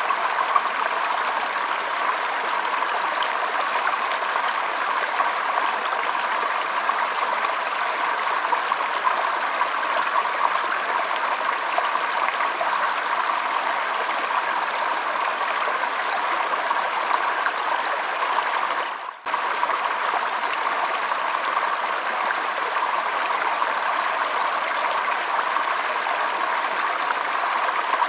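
Shallow stream trickling and flowing steadily, an even rush of water that dips briefly about two-thirds of the way through before carrying on.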